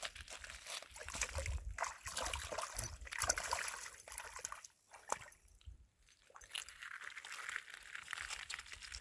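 Water sloshing and splashing in uneven surges, with small clicks and knocks, and wind rumbling on the microphone.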